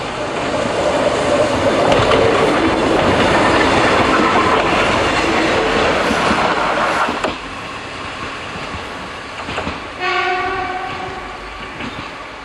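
Eizan Electric Railway electric train running past at close range, a loud rush of wheel-and-rail noise that falls away about seven seconds in. About ten seconds in, a train sounds one short horn blast of about a second, a single steady pitched tone.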